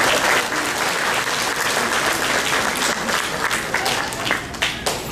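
Audience applauding, thinning out to scattered separate claps near the end.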